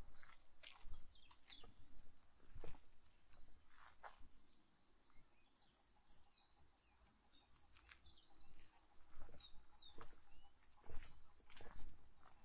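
Small birds chirping in many short high calls, with occasional footsteps of a walker on a path that stop for a few seconds in the middle.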